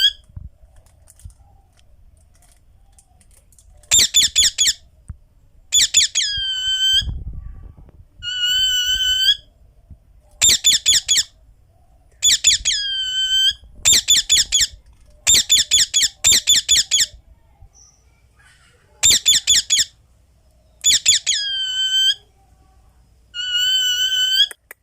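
Indian ringneck parakeet screeching in repeated bouts of shrill calls, some as rapid runs of short notes and some ending in a falling sweep, with short pauses between bouts.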